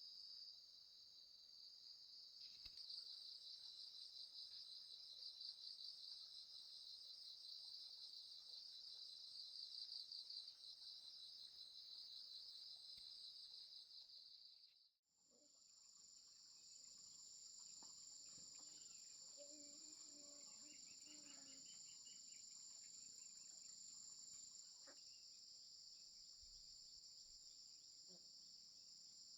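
Faint, steady chorus of insects such as crickets, a continuous high pulsing trill. It cuts out for a moment about halfway through and comes back with a thin, even higher tone added.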